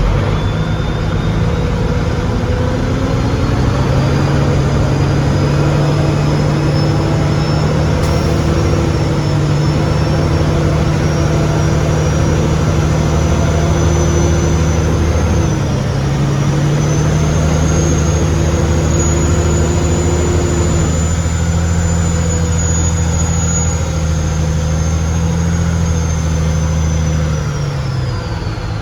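Heavy engine of a piece of logging equipment running hard. It revs up over the first few seconds, with a high whine rising with it, holds steady, then winds down near the end.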